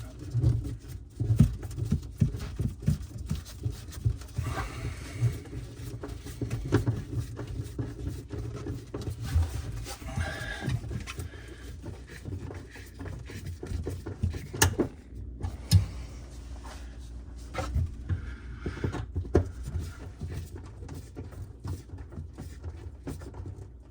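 Irregular knocks, taps and rustling from hand work inside a cabinet, fastening a small 1/4-inch clamp over PEX water tubing.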